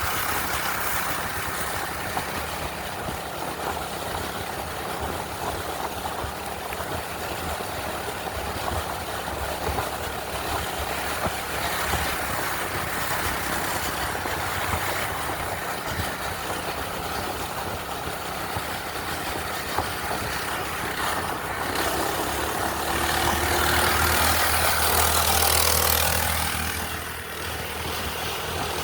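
A minibike's small gas engine running steadily under a constant rushing noise, getting louder for a few seconds near the end, then dropping back.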